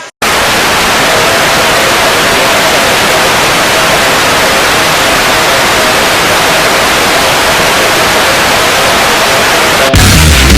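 Loud, steady static hiss that cuts in abruptly. Just before the end it gives way to heavy metal music.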